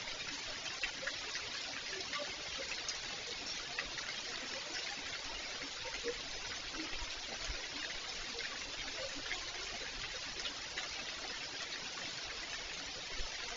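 Steady rain falling, with running, trickling water and scattered drip ticks.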